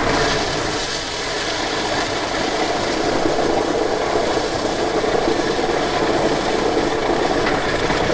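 Heavy diesel logging machinery running steadily, with a constant high hiss over the engine noise.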